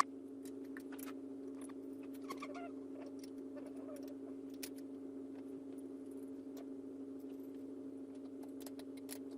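Scattered light clicks and taps of ride-on toy truck parts being handled and fitted together by hand, over a steady background hum.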